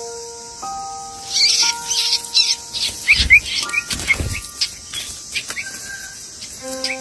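Baby birds in a nest giving a fast run of short, high chirps, with two low thumps in the middle. Background music with held notes fades out about a second in and comes back near the end.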